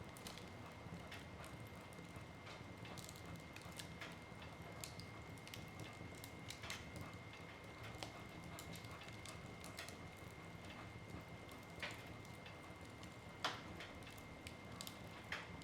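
Wood fire crackling in a fireplace: irregular small pops and snaps of burning wood over a low steady rush, with one louder pop near the end.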